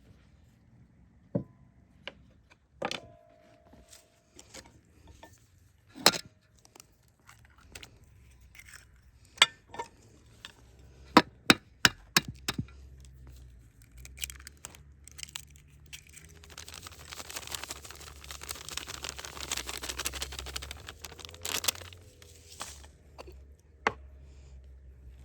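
Handling sounds: a series of sharp knocks and clicks, one ringing briefly about three seconds in, then about six seconds of steady scraping or rustling noise.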